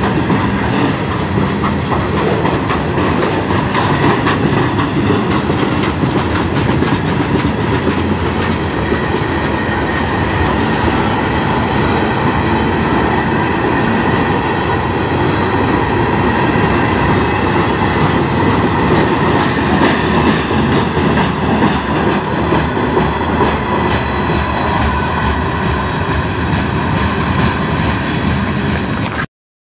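Freight train boxcars and covered hoppers rolling past close by, steel wheels clattering over rail joints, with a thin steady squeal above the rumble. The sound cuts off suddenly near the end.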